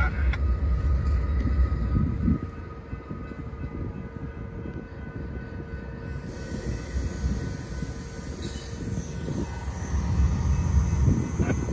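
Freight train's covered hopper cars rolling slowly past during switching: a low rumble of steel wheels on rail with a faint steady squeal above it. The rumble drops about two seconds in and swells again near the end.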